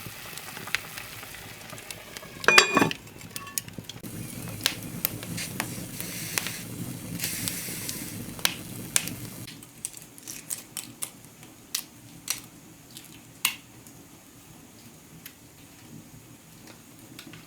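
Food sizzling in a pan over a cooking fire, with metal utensils clicking and scraping against cookware and one loud ringing clank about two and a half seconds in. The sizzle drops away about halfway through, leaving only scattered clicks and taps.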